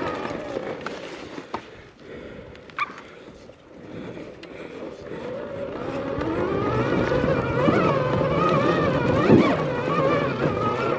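Arctic Leopard XE Pro electric dirt bike's motor whining under throttle, its pitch wavering up and down as power is fed in, growing louder over the second half. A few sharp knocks from the tyres on rocks in the first few seconds.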